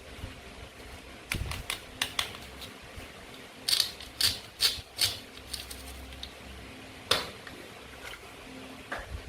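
Toy play food being cut and handled: a series of sharp plastic clicks and clacks, four in quick succession in the middle and one loud one about seven seconds in.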